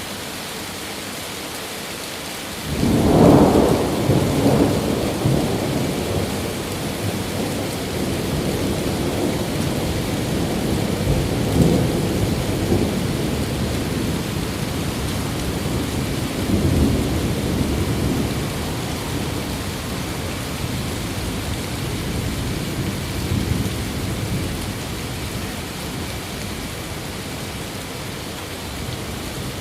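Steady rain hiss, with a peal of thunder breaking in suddenly about three seconds in and rumbling on in several swells for some twenty seconds before dying away.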